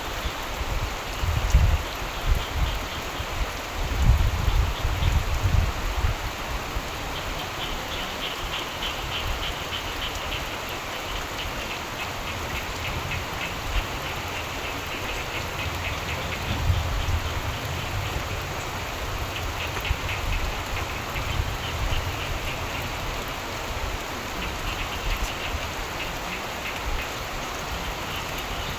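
Steady rain falling, with frogs calling in runs of rapid croaks that come and go several times, and low thunder rumbles that swell and fade, the strongest about four to six seconds in.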